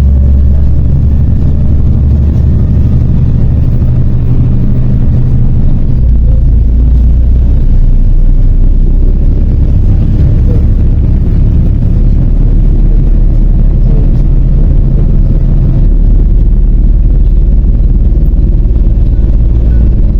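MAZ 103 city bus in motion, heard from aboard: a loud, steady low engine and road rumble whose engine note steps to a new pitch several times as the bus changes speed.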